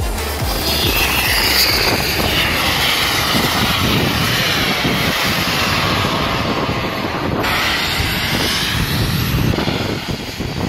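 Radio-controlled model jet aircraft flying overhead, their engines giving a loud rushing whine that rises and falls in pitch as they pass.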